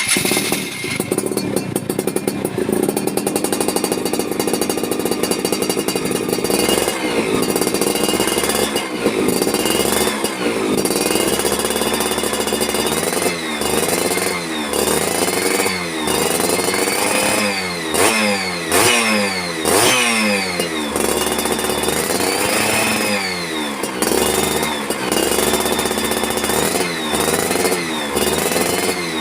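Yamaha F1ZR single-cylinder two-stroke engine running through an aftermarket racing exhaust. It idles steadily, then from about seven seconds in it is revved again and again, the pitch jumping up and dropping back roughly every one to two seconds.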